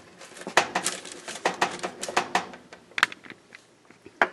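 Cut raw vegetables (carrots, cauliflower, broccoli and Brussels sprouts) clicking and knocking against a cookie sheet as they are spread out: a quick, irregular run of taps that thins out after about two and a half seconds, with a single sharper knock near the end.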